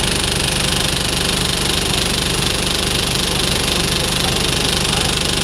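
DAF SB220 bus's diesel engine idling while stationary, steady throughout, with the bad idle and banging noise that mark a fault in its running.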